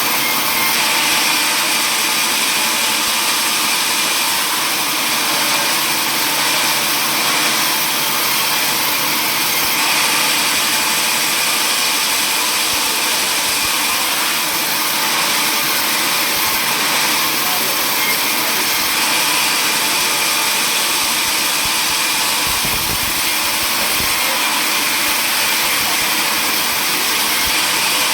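Power saw running steadily, a continuous loud machine noise with no pauses.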